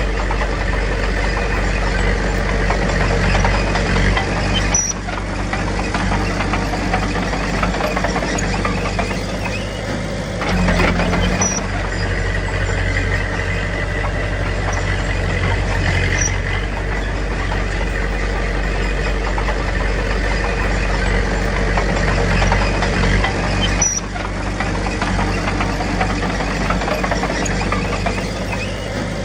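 Heavy diesel engine running steadily, with abrupt changes in the sound about five, ten and twenty-four seconds in.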